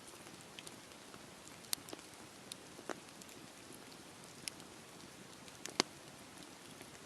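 Wood campfire burning with a steady low hiss and scattered sharp crackles and pops, the loudest pops about two seconds in and near the end.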